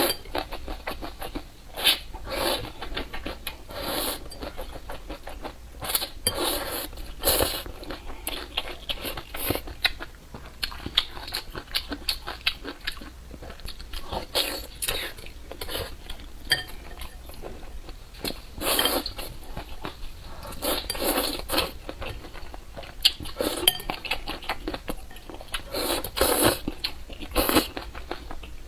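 Close-up mukbang eating sounds: chewing and biting in irregular bursts, with utensils clinking against the bowl.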